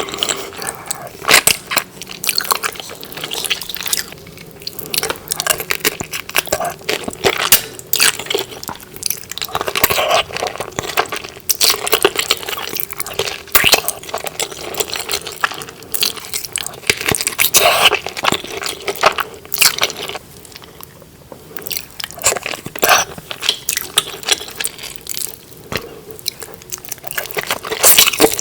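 Close-miked eating sounds of saucy seafood: wet chewing, bites and lip smacks, with many sharp irregular clicks. They ease off briefly about two-thirds of the way through.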